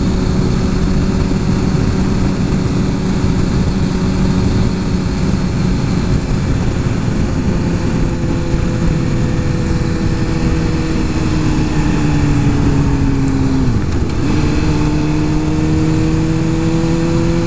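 Suzuki GSX-R 1000 superbike's inline-four engine pulling at a steady cruise under heavy wind noise. About ten seconds in, the engine note sinks slowly, breaks off briefly at around fourteen seconds, then picks back up and holds steady.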